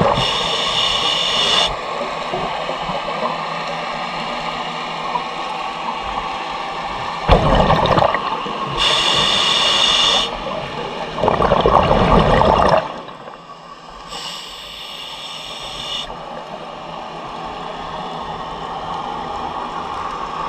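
Scuba diver breathing through a regulator underwater: three hissing inhalations through the demand valve, alternating with gurgling bursts of exhaled bubbles.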